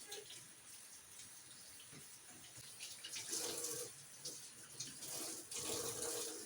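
Water running and splashing in a sink, swelling louder twice, about three and a half and six seconds in.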